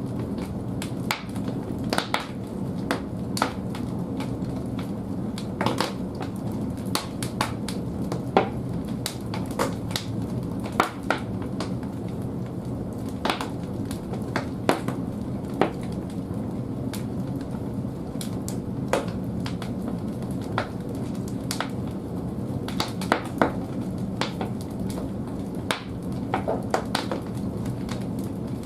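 Large firewood burning in a wood-fired bathhouse boiler's firebox: a steady low rush of the flames with frequent, irregular sharp crackles and pops of the wood.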